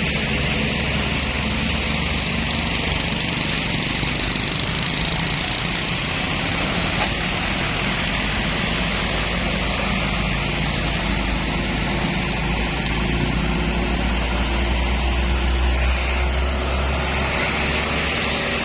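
Steady rumble of vehicle engines in stalled traffic, with a faint engine note that climbs slightly near the end.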